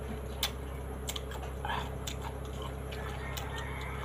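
Chewing raw green mango with the mouth closed: scattered sharp crunches and clicks.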